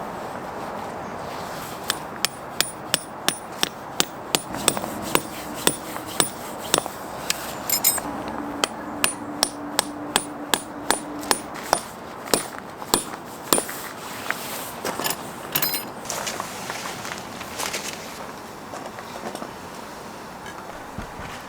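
Kitchen knife chopping on a cutting board: sharp, even strokes about two a second that stop about fourteen seconds in, followed by a few scattered knocks.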